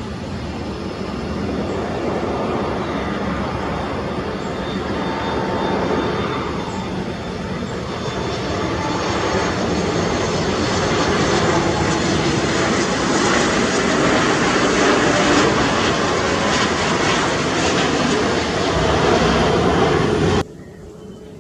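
Twin-engine jet airliner's turbofan engines, a loud steady rushing noise that slowly grows louder, then cuts off suddenly near the end.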